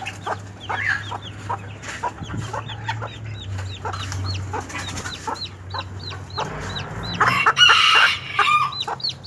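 Chicks peeping steadily in high, repeated cheeps, with a hen clucking among them. A rooster crows once, louder, near the end.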